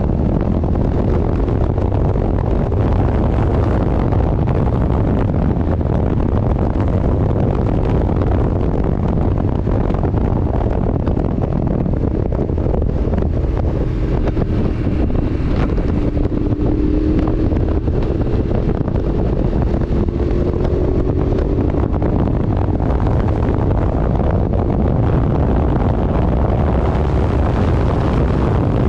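Steady wind rushing over the microphone of a moving vehicle, with the vehicle's running noise beneath it. A faint pitched hum rises and falls about halfway through.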